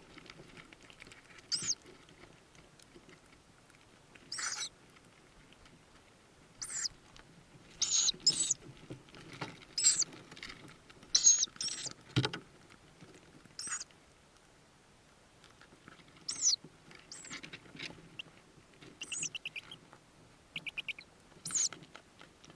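Tawny owl chicks in a nest box giving short, high, hissing begging calls every second or two, over faint rustling. A sharp knock comes about twelve seconds in, and two quick runs of clicks come near the end.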